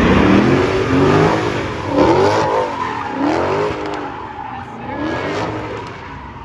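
A car engine revving up and down over and over while the car spins its rear tyres, the tyres squealing. The revs peak about once a second or so, loudest in the first few seconds and then easing off.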